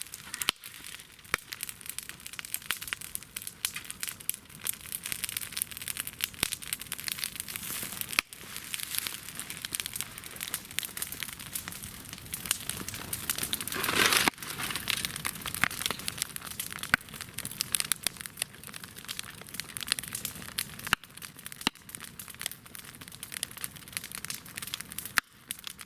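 Television set burning in a tyre bonfire, crackling and popping continuously as its plastic and parts burn, with a brief louder hiss about halfway through.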